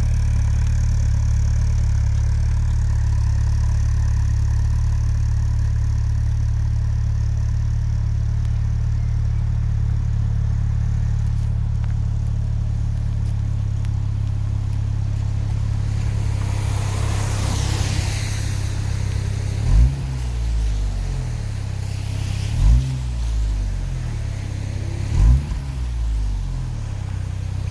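Saab 9-5 Aero's turbocharged 2.3-litre four-cylinder idling steadily through a 3-inch downpipe and 2.5-inch Jetex cat-back exhaust, then, in the last third, three quick throttle blips, each a short rise in revs that drops straight back to idle.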